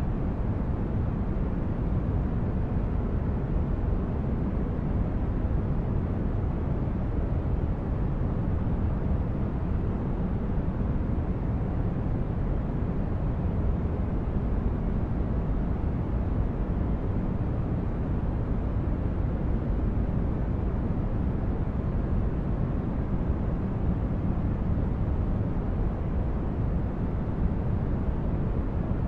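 Steady white-noise sleep track: a deep, even rush with most of its weight low down, unchanging throughout.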